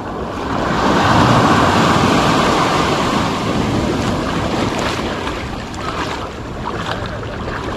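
Ocean surf: a wave washes in, swelling about a second in and slowly ebbing away, with wind rumbling on the microphone.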